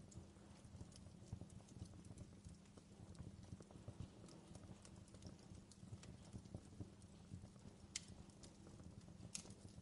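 Fireplace fire crackling faintly, with scattered small irregular pops over a low steady rumble, and two sharper pops near the end.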